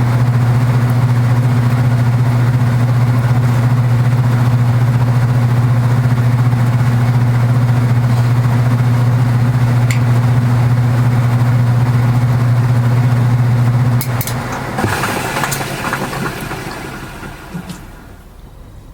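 Old Kenmore belt-drive portable washing machine running with a loud, steady low hum, which stops suddenly about fourteen seconds in. A few clicks follow, then a rattling wind-down that fades as the machine coasts to a stop.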